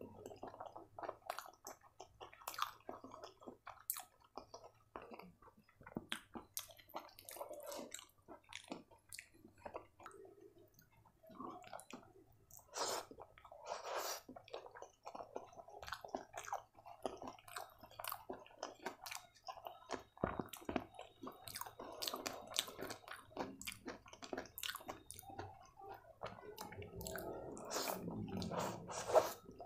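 Close-miked chewing and mouth sounds of a person eating rice and noodles by hand: wet, squishy chewing with irregular smacks and clicks.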